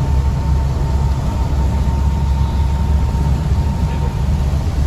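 Car driving on a rain-wet road, heard from inside the cabin: a steady low rumble of engine and tyres with a hiss of road noise over it.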